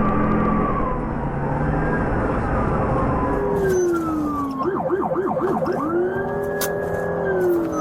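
Police car siren in a pursuit, wailing in slow rising and falling sweeps, switching around the middle to a fast yelp of about five quick sweeps, then back to the slow wail. A low rumble sits under the siren in the first half.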